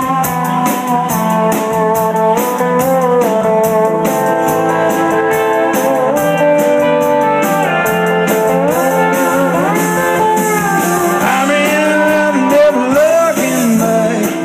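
Live roots-country band playing an instrumental break, a lead guitar playing bent, sliding notes over the steady backing of the band.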